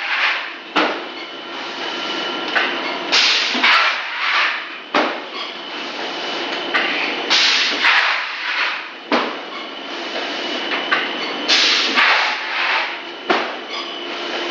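Extruder machine running through a repeating cycle about every four seconds: a sharp clack, then a second or so later a short burst of hissing, over a steady mechanical hum.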